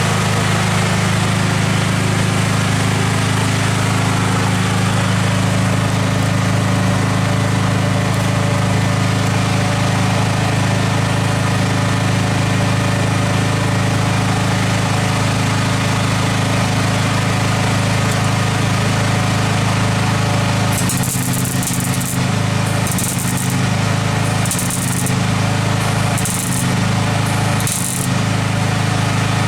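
A steady low machine hum throughout; from about two-thirds of the way in, several short bursts of welding crackle with pauses between them, as drill holes in the car's rear panel are filled with weld.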